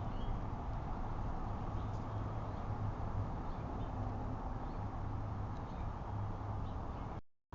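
Steady outdoor background noise with a low hum, and a few faint short chirps over it. It cuts out to silence briefly near the end.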